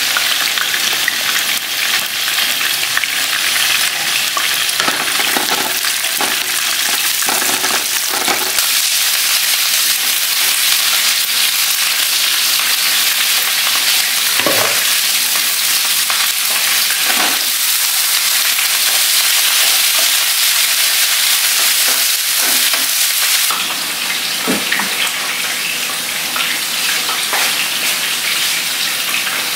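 Hot oil sizzling steadily in frying pans of tofu pieces and sliced shallots with chili, with a few knocks now and then. The sizzle eases a little about 23 seconds in.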